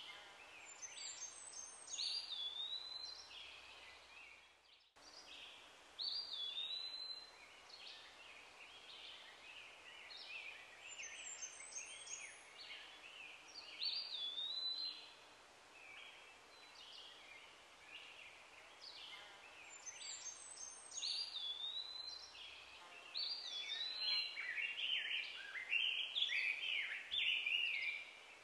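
Wild birds singing over a faint outdoor background: repeated phrases of high whistled notes, each ending in a swooping whistle, come back every few seconds and grow busier and overlapping near the end. The sound cuts out for a split second about five seconds in.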